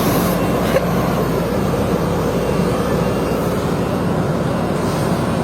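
Heavy machinery engine running steadily with a continuous low mechanical drone.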